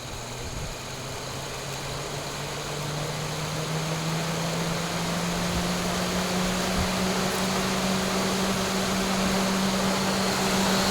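Peugeot 407's electric engine cooling fan spinning up at high speed under a diagnostic actuator test, with the engine off. Its hum rises steadily in pitch and loudness over several seconds, then settles at full speed.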